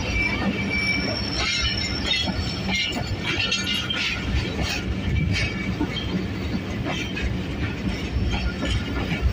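Passenger train coaches rolling past on the track as the train pulls into the station: a steady low rumble of wheels on rail, with high-pitched wheel squeals and scattered clacks over rail joints, the squeals mostly in the first half.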